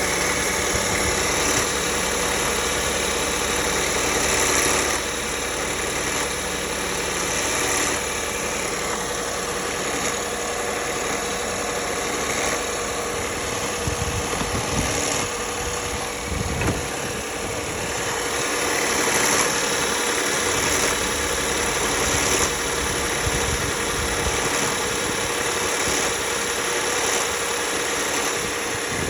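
2009 Lexus ES350's V6 engine idling steadily, with a constant whine running through the engine noise. The owner takes the noise for a symptom of a bad water pump.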